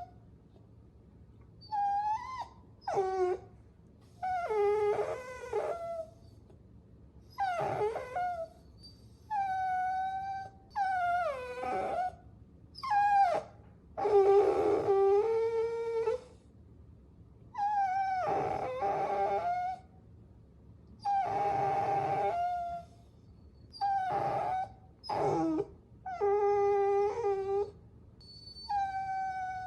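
Puppy whining: about a dozen high, drawn-out whines and short howls, each a second or two long with brief pauses between, some sliding down in pitch at the end.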